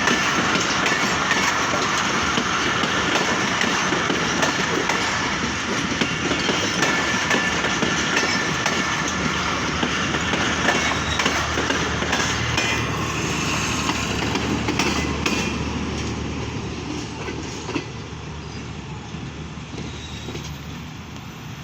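A passing train's wagons rolling over the rails, wheels clattering over the rail joints, fading over the last few seconds as it moves away.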